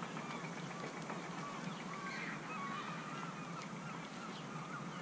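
Many short calls from birds, coming one after another, over a steady low hum.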